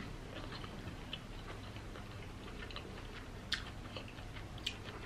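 A person chewing food with the mouth closed: soft, wet mouth clicks, with two sharper clicks a little past the middle.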